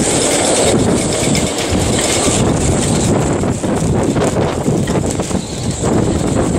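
Wind buffeting the microphone, a loud irregular rumble with a steady hiss above it.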